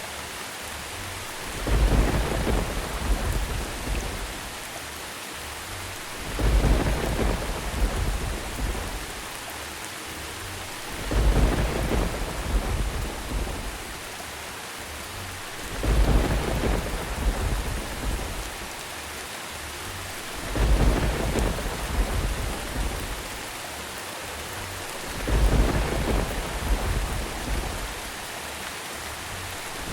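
Thunderstorm: steady rain with a low rumble of thunder coming about every five seconds at even intervals, six times, each swelling quickly and dying away over two or three seconds.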